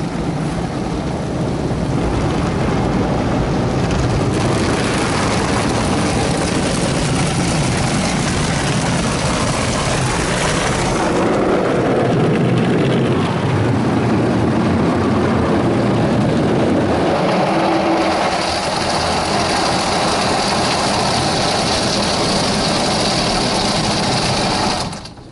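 PDQ ProTouch Tandem car wash running over a car, with water spraying hard against the body, heard from inside the car. The spray shifts in character a few times and drops off suddenly near the end.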